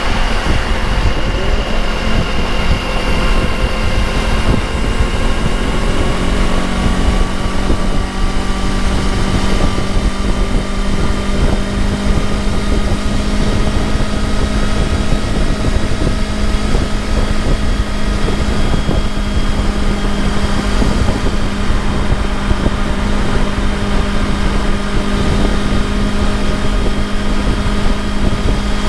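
Motorcycle engine running at steady highway speed, with wind rushing over the microphone. The engine note climbs a little during the first few seconds, then holds steady.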